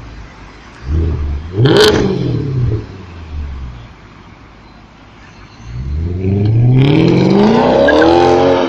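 Maserati Quattroporte V8 blipping its throttle once, with a sharp crack at the top of the rev about two seconds in. After a short lull it accelerates away hard, its engine note climbing steadily and loud.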